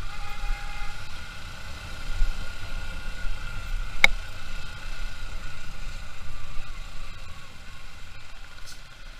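Motorcycle engine running on the move, a low uneven rumble with road and traffic noise, and a single sharp click about four seconds in.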